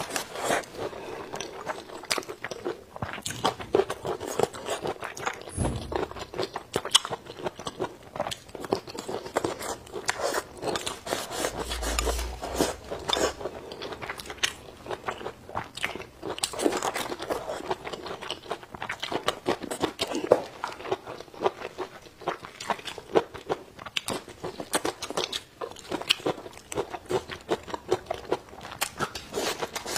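A person chewing and crunching mouthfuls of food close to a clip-on microphone: a steady run of many sharp crunches a second, with two low thumps about six and twelve seconds in.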